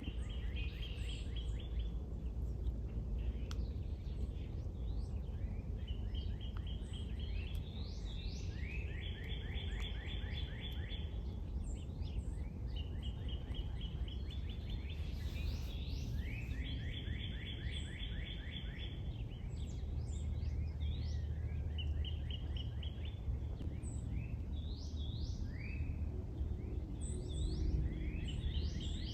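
Small songbirds singing outdoors: a trill of quick, evenly spaced notes repeated again and again every few seconds, with some short high whistled calls between, over a steady low rumble of background noise.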